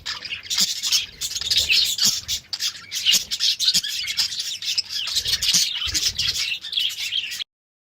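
Budgerigars chirping and chattering without pause, several birds at once, with scattered clicks and low knocks among the calls; it cuts off suddenly near the end.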